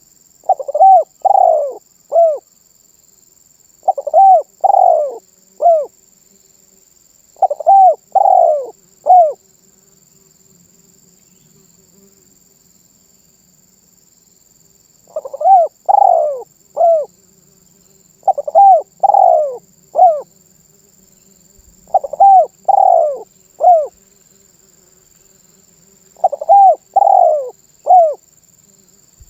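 Spotted dove (tekukur) cooing: seven phrases of three coos each, with a pause of about five seconds in the middle.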